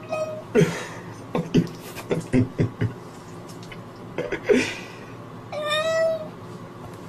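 A wet tabby cat sitting in bathwater meowing in protest at the bath: a string of short, low cries, then one longer, drawn-out meow about five and a half seconds in.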